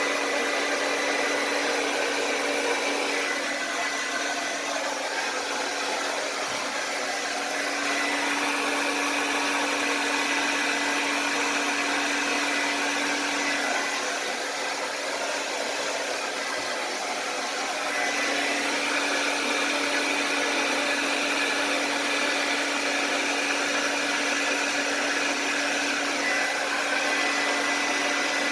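Blow dryer running steadily, a rushing of air over a steady hum. About halfway through the hum drops out and the sound softens for a few seconds, then comes back.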